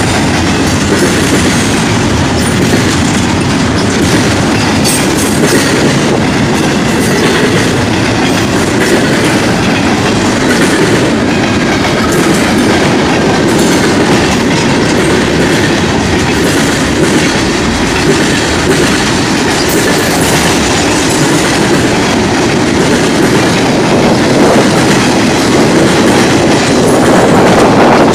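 Freight train rolling past at close range: the steady rumble of steel wheels on the rails as double-stack container well cars and then tank cars go by. It grows a little louder near the end.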